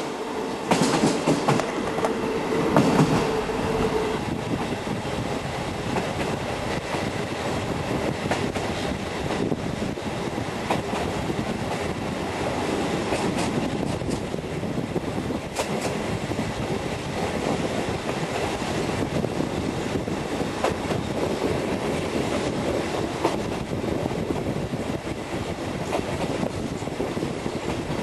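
Train hauled by the steam locomotive BDZ 46 03 on its first run after restoration, rolling along the line with the steady noise of the wheels and regular clicks over rail joints. A steady tone sounds over it at first and stops about four seconds in.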